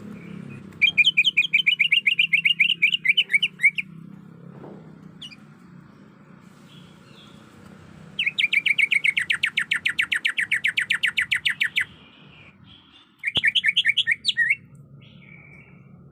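Female greater green leafbird (cucak ijo) calling in three bouts of fast, evenly repeated high chirps: a long bout near the start, a longer one in the middle and a short one near the end. It is a mating call to draw a male.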